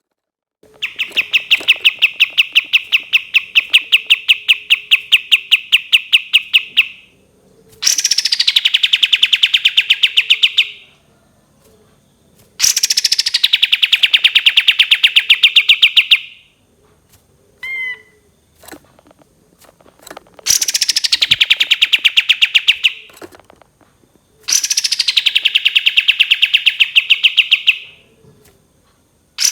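Kapas tembak songbird singing long rapid trills of repeated notes, five bouts of three to six seconds each, most starting with a quick downward sweep, with a short single call between the third and fourth bouts.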